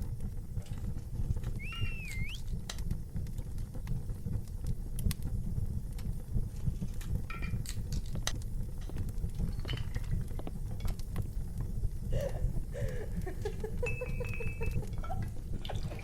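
Wood fire in a barbecue fireplace burning, with a dense low rumble and frequent sharp crackles and pops from the logs.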